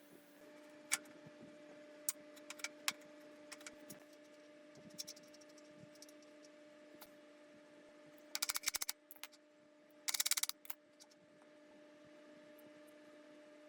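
Scattered light clicks, then two short bursts of rapid clicking near the middle, over a steady low hum.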